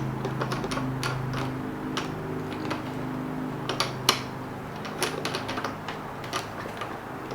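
Irregular light clicks and taps of a pressure hose's threaded coupling being handled and unscrewed from the pressure washer's outlet, with a sharper knock about four seconds in.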